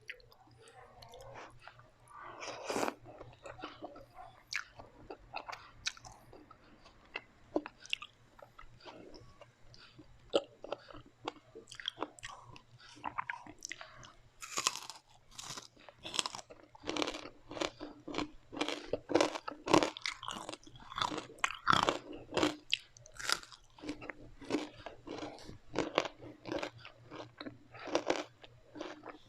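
Close-miked chewing and biting of crispy fried food, with many sharp crunches that come thick and fast from about halfway on.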